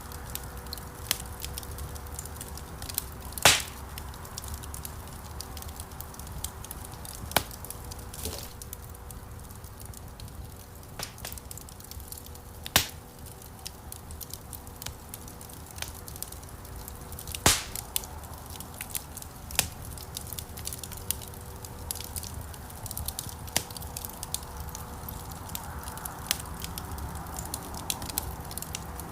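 Wood fire burning in a stone fireplace, crackling with many small sharp snaps and three louder pops, about 3.5, 13 and 17.5 seconds in, over a low steady rumble of the flames.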